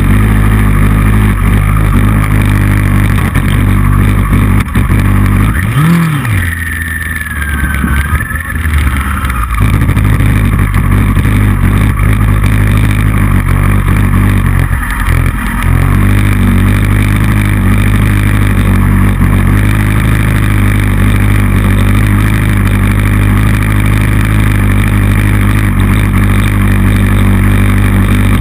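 Motorcycle engine running at track speed, heard from a camera mounted on the bike. The engine note drops away for a few seconds about six seconds in, and dips briefly again around fifteen seconds.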